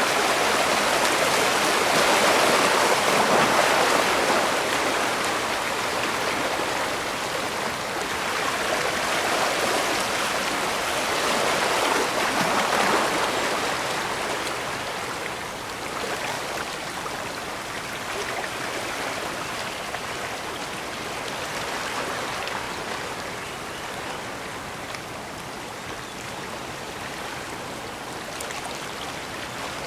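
Seawater washing and rushing at the edge of Hilo Bay, a continuous wash that swells slowly and eases off a little in the second half.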